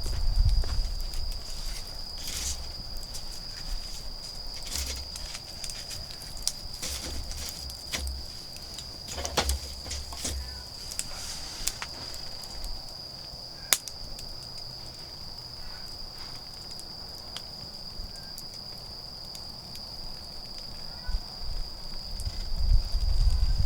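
Autumn insects in a steady, unbroken high trill, over a wood fire crackling with scattered sharp pops. A low rustling rumble swells near the end.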